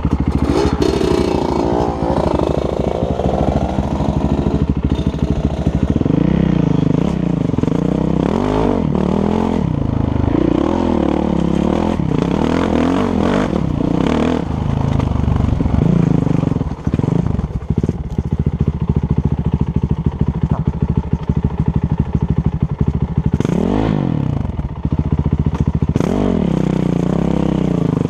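Husqvarna dirt bike engine revving up and falling off again and again as the bike is ridden, with some clatter.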